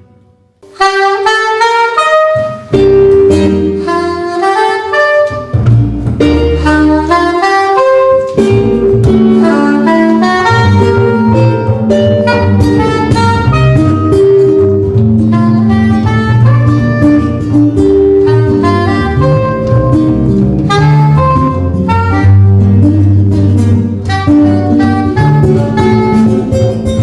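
Live jazz trio playing, a melody line over low bass notes. The music comes in about a second in, after a moment of quiet.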